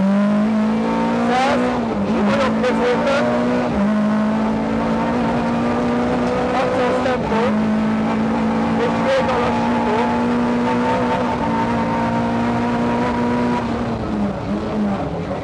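Lada rally car's engine heard from inside the cabin, held at high revs in one steady note. It dips briefly about two, four and seven seconds in, then its revs fall and waver near the end.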